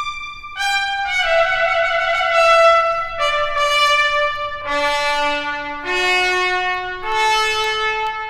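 Solo trumpet playing a slow phrase of held notes, each about a second long. The notes step down in pitch to a low note near the middle, then climb back up.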